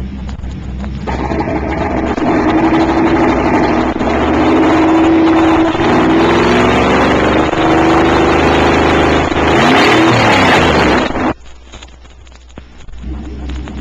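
V8 automobile engine with an open exhaust running hard, its pitch sliding down and up as it is revved; it stops abruptly about eleven seconds in. Near the end a second, quieter V8 engine, fitted with factory mufflers, starts up.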